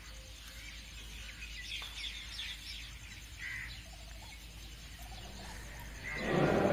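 Faint bird chirps over quiet room tone, joined near the end by louder background noise with more chirping.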